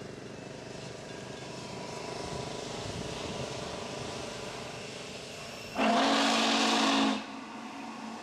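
Norfolk & Western 611 steam locomotive's whistle sounding one blast of a little over a second, about six seconds in, a chord of steady tones over a hiss of steam. Before it, a steady background noise.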